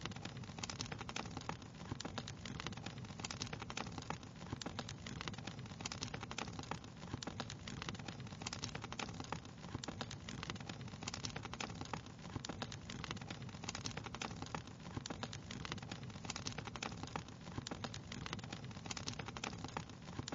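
Wood fire crackling steadily: a constant soft hiss with dense, irregular sharp pops and snaps throughout.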